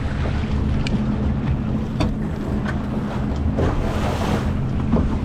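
Wind buffeting the microphone and water washing along the hull of a Flying Scot sailboat under way, with a low steady hum underneath and a few light clicks.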